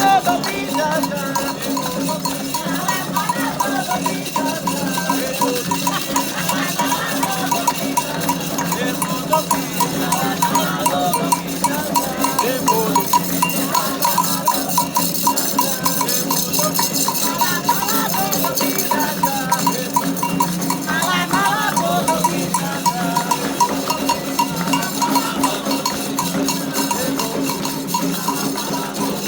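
Candomblé ritual drumming: atabaque hand drums and a metal agogô bell keep a steady beat, with voices wavering over it.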